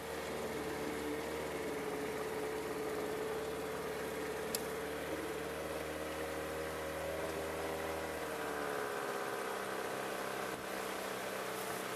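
Outboard motor of a fishing boat running steadily underway, its pitch rising a little about six seconds in and easing back. A single sharp click about four and a half seconds in.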